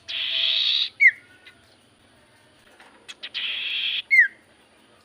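Common iora singing: two long, harsh, buzzing phrases, each ending in a short downward-sliding whistle.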